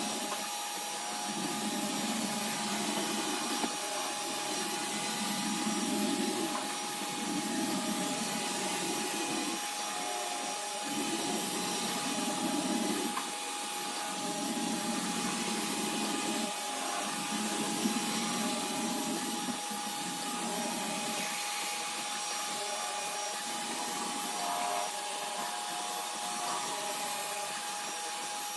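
iRobot Roomba robot vacuum running with a steady motor whine and hiss. Its brush noise swells and fades about every two seconds.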